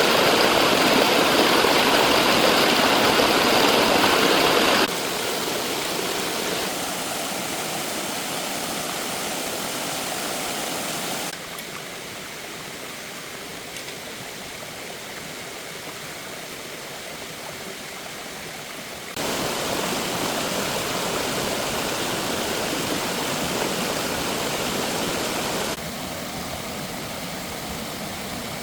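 Flowing water rushing steadily, with no pitched engine sound. Its loudness drops and rises abruptly several times, about 5, 11, 19 and 26 seconds in, loudest at the start.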